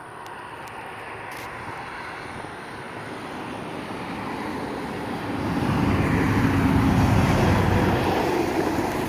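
Semi truck approaching and driving past, its engine rumble and road noise growing steadily louder and loudest about two-thirds of the way through.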